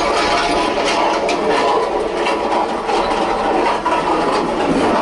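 A passenger train running, heard from inside a carriage: a steady, loud rumble and rattle of the wagon over the rails, with faint clicks throughout.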